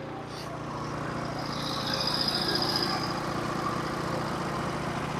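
Norwood HD36 portable bandsaw mill's engine running steadily, with a high whine coming up and fading again from about a second and a half to three seconds in.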